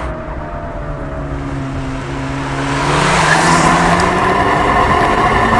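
Fiat Abarth 500's turbocharged four-cylinder engine running at steady revs as the car drives. About three seconds in it grows louder, with more road and wind noise.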